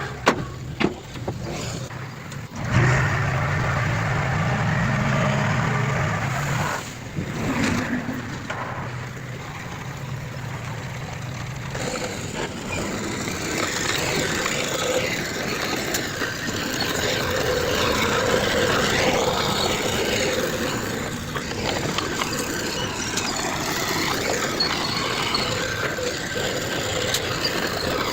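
Diesel engines of heavy earthmoving machinery running under work, with a few sharp knocks in the first two seconds. From about three to six seconds in, a louder low engine drone stands out.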